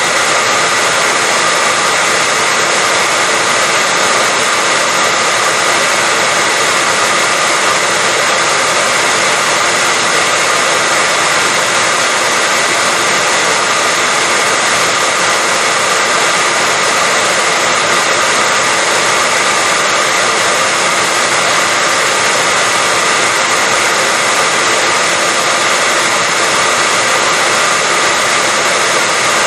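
Hair dryer running steadily on one setting: a continuous blowing noise with a faint steady whine over it, unchanging throughout.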